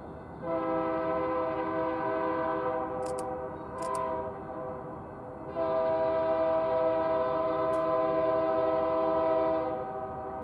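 Locomotive air horn with several chime notes sounding at a grade crossing: a long blast, a brief swell, then a second long blast of about four seconds.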